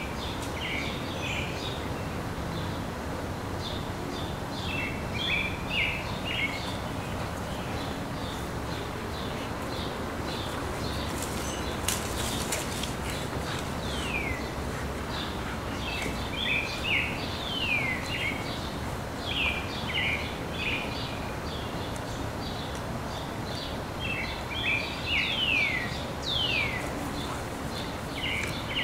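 Songbirds calling over a steady background hiss: groups of quick high chirps, with several rapid falling whistled notes, more often in the second half.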